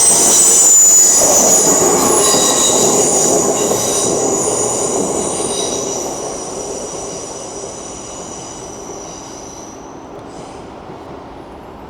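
LNER Class 801 Azuma electric train passing slowly, its wheels giving a high squeal in several steady tones over a rumble, the whole sound fading steadily as the train moves away.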